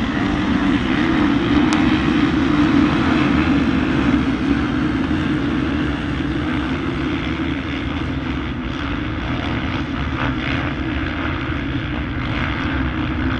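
A pack of motocross bikes running at high revs, a dense, steady engine drone that is loudest in the first half and eases off a little after.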